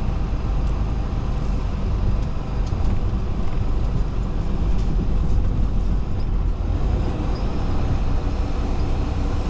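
Semi truck's diesel engine running steadily while driving, a continuous low rumble.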